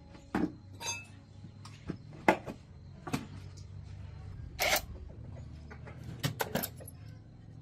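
Light clicks, taps and knocks of tools and small metal parts being handled during the repair, with one sharper knock a couple of seconds in and a brief scrape near the middle, over a low steady hum.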